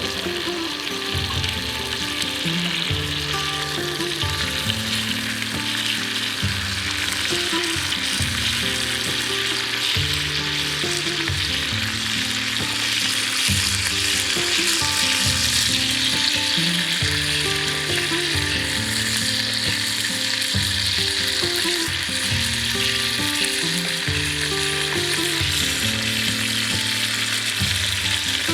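Cornish game hen searing in a hot cast iron skillet: a steady, continuous sizzle of fat and juices. Background music with steady low notes plays under it.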